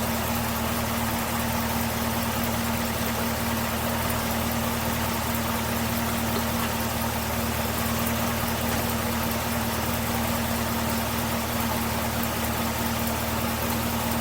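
Supercharged 6.2-litre V8 of a Chevrolet Camaro ZL1 1LE idling steadily in park, with no revving.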